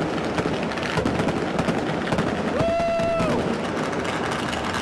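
Massed New Year's fireworks and firecrackers going off across a city, a dense, unbroken crackle of bangs. About halfway through, a short, steady horn-like note sounds over it.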